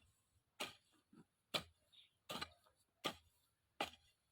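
A hand tool chopping into grass and soil in a steady rhythm, about six sharp strokes, each followed by a short scrape, as weeds are cleared for a vegetable bed.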